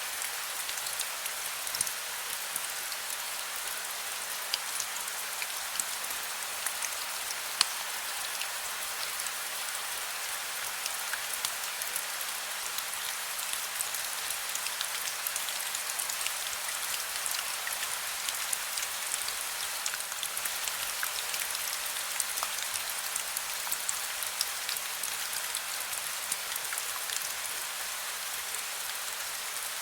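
Heavy rain falling steadily, a dense hiss scattered with many sharp individual drop hits.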